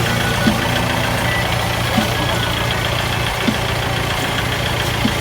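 Kubota L4708 tractor's four-cylinder diesel engine idling steadily.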